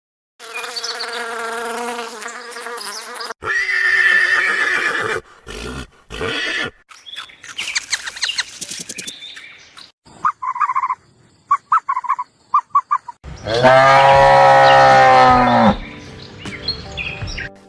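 A string of different animal calls cut one after another, farm animals among them: several long pitched calls in the first few seconds, a run of short chirping calls in the middle, and a loud, drawn-out call near the end.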